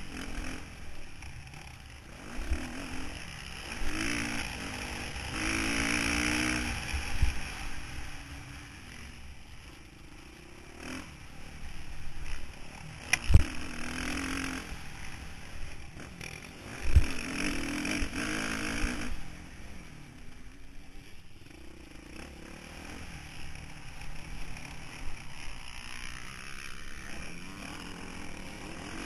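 Motocross bike engine revving up and easing off again and again as it rides the track, heard through an onboard camera with wind noise. Several sharp knocks cut through, the loudest a little under halfway in and again a few seconds later.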